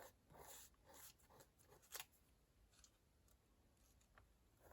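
Near silence with a few faint taps and paper rustles in the first two seconds: card-stock leaves being moved about on a card.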